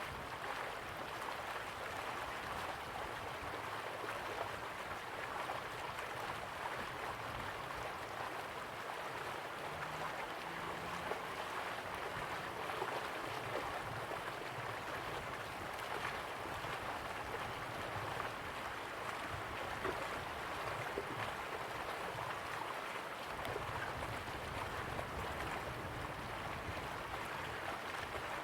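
River water flowing steadily, a continuous even rush with small splashing and trickling flicks.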